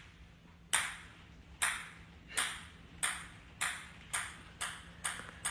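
A series of about nine short, bright pings, each starting sharply and fading quickly, coming a little faster toward the end.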